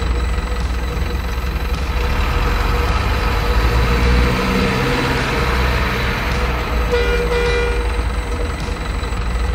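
Heavy diesel truck engine sound running steadily with a deep rumble, and a short horn toot about seven seconds in.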